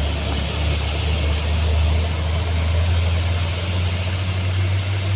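Truck's diesel engine running with a steady low drone, its pitch edging up slightly near the end.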